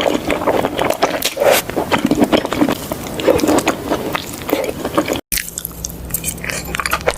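Close-miked eating sounds: a person biting and chewing food, with dense, irregular wet crackles and clicks. About five seconds in the sound drops out for a moment, then sparser chewing continues over a low steady hum.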